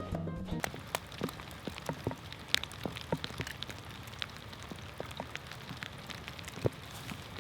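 A steady hiss dotted with many small, irregular crackles and ticks, a patter like rain falling on a hard surface or an egg sizzling.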